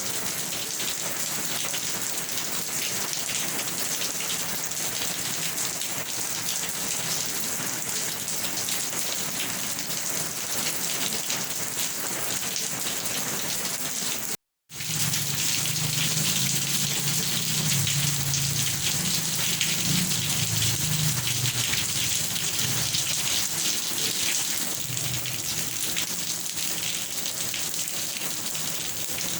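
Steady rain hiss with no let-up. About halfway through, the sound cuts out completely for a fraction of a second. A low rumble of thunder follows for several seconds before fading back into the rain.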